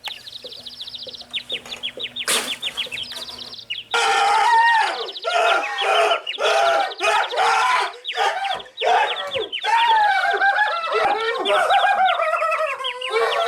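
Bird calls: fast, faint chirping at first, then, from about four seconds in, loud repeated calls that rise and fall in pitch.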